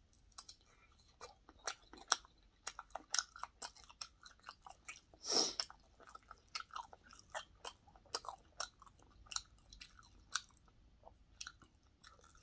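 A person chewing mouthfuls of crisp fried breaded pork cutlet: a steady run of small crunches and wet smacks. About five seconds in there is one short, louder breath.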